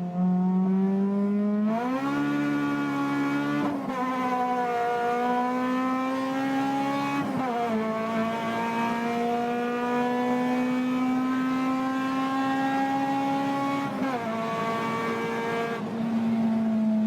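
Honda K20 four-cylinder engine at high revs under hard acceleration, its pitch climbing steadily through each gear. The pitch drops sharply at three upshifts.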